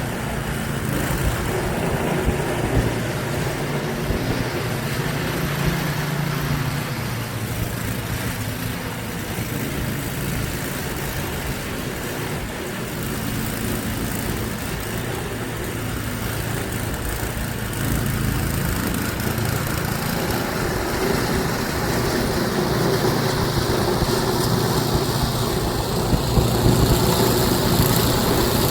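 An engine running steadily, getting somewhat louder over the last several seconds.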